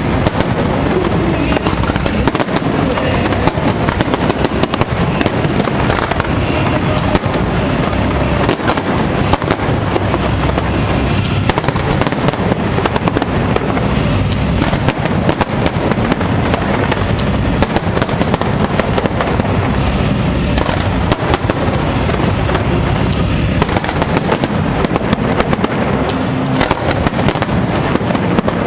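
Fireworks display in full flow: a continuous dense barrage of bursts and crackling with no let-up, mixed with the show's music.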